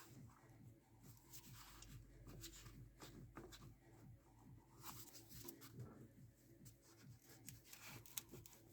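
Faint, repeated knocks and clicks from a car's tripod joint, the tripod-type inner CV joint of a drive shaft; knocking like this is the sign of a worn joint.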